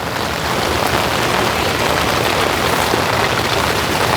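Steady summer rain falling, a dense hiss of many small drops that swells a little louder just as it begins, then holds steady.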